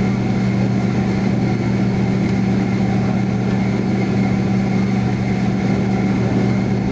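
Boeing 767 cabin engine noise: a loud, steady jet drone with two constant low hums under a rushing noise, unchanging throughout.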